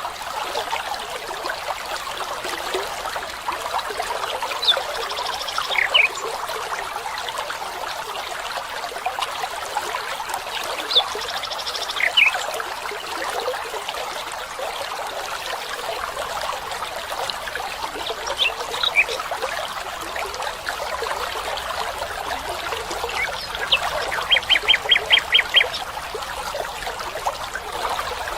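Steady trickling of running water, with bird calls over it: brief high calls about five and eleven seconds in, a few faint ones near the middle, and a quick run of about eight short notes near the end.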